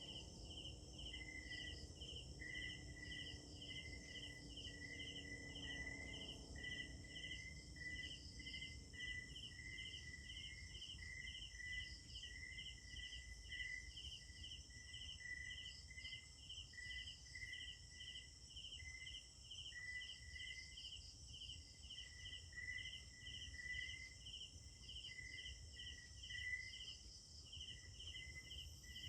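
Night insects, crickets among them, chirping in an even rhythm of about three chirps a second, layered over a steady higher insect trill.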